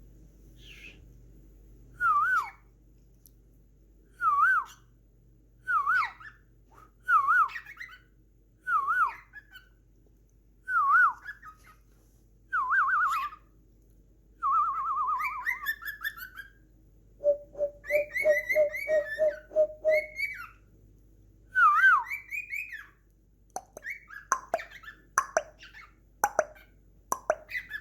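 Cockatiel whistling the same short warbling phrase over and over, about every second and a half. Past the middle it breaks into a quick run of lower repeated notes with higher chirps over them, then scattered chirps and clicks near the end.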